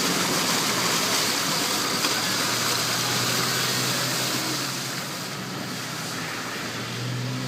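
A car driving along a flooded road: a steady hiss of tyres running through water, with a low engine hum coming in partway through. The hiss eases off a little about five seconds in.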